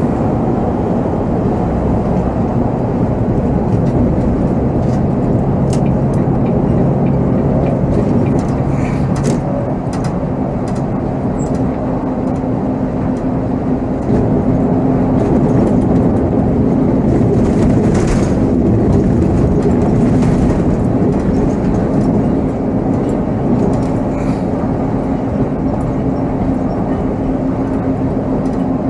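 Volvo B7R coach's diesel engine running as the bus drives, heard from the driver's seat with road noise, the engine note changing about fourteen seconds in. A few light clicks or rattles come between about five and eleven seconds in.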